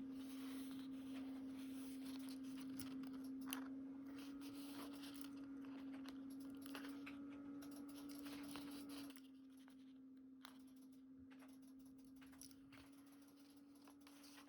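Faint small clicks, taps and rustles of paper and stickers being handled over a steady low tone. The tone drops in level about two-thirds of the way through.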